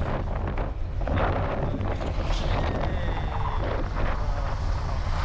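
Wind buffeting the microphone on a moving motorcycle, over a steady low rumble from the bike's engine and the road.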